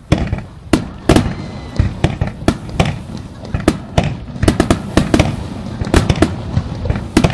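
Fireworks display: aerial shells bursting in quick succession, a rapid string of sharp bangs, some in tight clusters, over a continuous low rumble.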